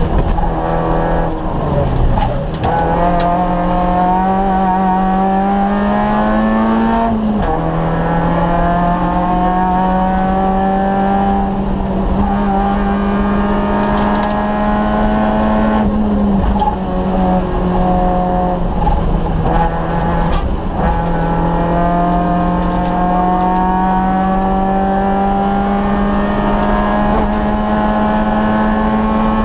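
Citroën Saxo VTS rally car's 1.6-litre four-cylinder engine, heard from inside the cabin, pulling hard. Its pitch climbs through each gear and drops at the upshifts, three times, with occasional knocks from the cabin.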